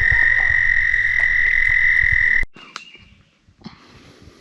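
A loud, steady trilling chorus of frogs with a few low thuds under it, cut off abruptly about two and a half seconds in. After the cut there is quiet woodland background with a couple of faint knocks.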